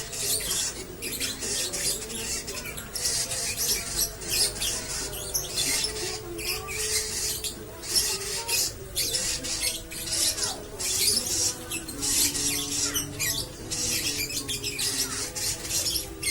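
Lovebird in a long, fast chattering song of shrill, scratchy high notes, breaking only briefly between runs: the prolonged 'ngekek' song that breeders prize.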